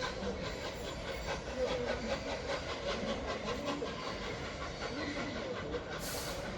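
Train coaches rolling past, wheels clicking over the rail joints in a steady clickety-clack, as the train hauled by steam locomotive 60163 Tornado goes through. A short hiss comes about six seconds in.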